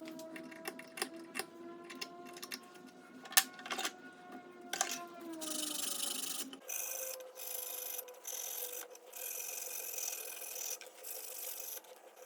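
Hand rubbing and filing on an antique leather awl's metal parts, with light clicks at first, then scraping strokes broken by short pauses. In the first half a steady hum sinks in pitch about five seconds in.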